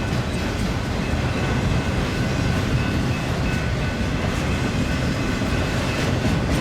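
Mixed freight train rolling past, a steady rumble of wheels and cars on the rails with some clatter.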